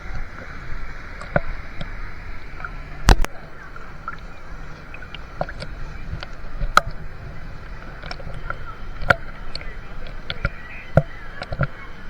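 Moving water with a steady wash and many sharp, irregular splashes, the loudest about three seconds in.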